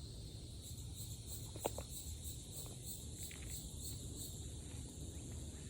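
Insects chirping in a high, steady chorus with a rhythmic pulse about three times a second, over a low rumble; a single short tap about one and a half seconds in.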